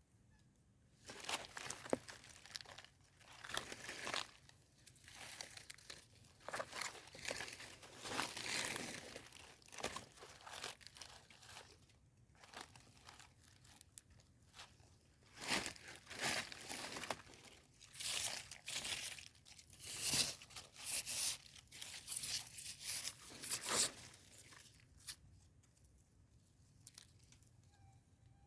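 Rustling, crinkling and tearing sounds in irregular bursts as termite mushrooms are picked by hand from the ground among leaf litter. The bursts die down about 25 seconds in.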